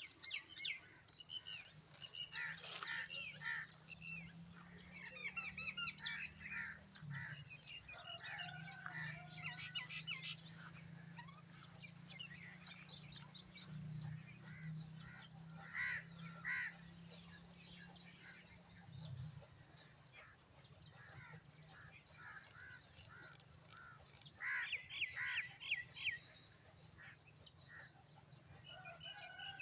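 Many birds chirping and calling together in a morning chorus, with quick trills and a high note repeating about once a second. A low steady hum runs under them and stops about two-thirds of the way through.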